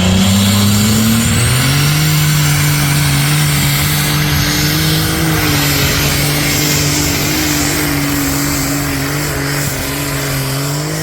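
High-revving engine of a competition pulling vehicle running hard under load. Its pitch steps up about a second and a half in, then holds nearly steady and sags slightly near the end, with a loud hiss over it.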